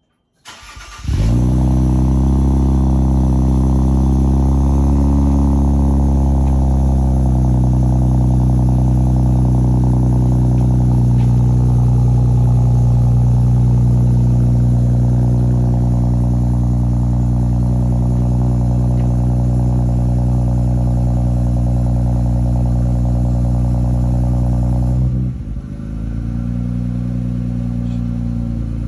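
Infiniti Q50 Red Sport 400's 3.0-litre twin-turbo V6 cold start, heard through catted high-flow downpipes and a cat-back exhaust with a resonated X-pipe and sport mufflers. It cranks briefly, catches about a second in and settles into a loud, steady cold-start high idle. About 25 seconds in the idle drops to a lower, quieter speed.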